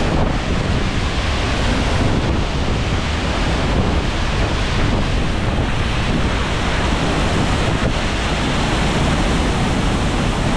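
A powerful waterfall close by, its water crashing in a loud, steady rush, with gusts of spray-driven wind buffeting the microphone.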